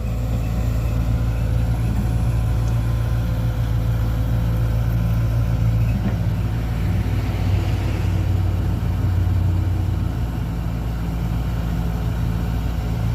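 Large diesel engine of heavy machinery running steadily at low revs, a deep, even hum.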